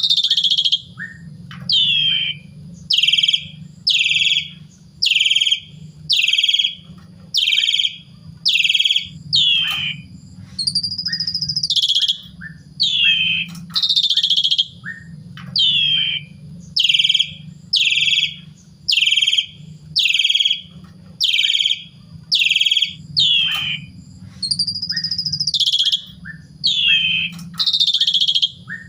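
Javan pied starling (jalak suren) calling over and over, a loud short falling whistle about once a second, with a few longer rising-and-falling whistled notes mixed in.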